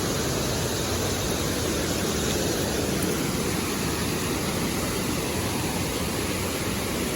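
Waterfall water rushing in a steady, even wash of noise.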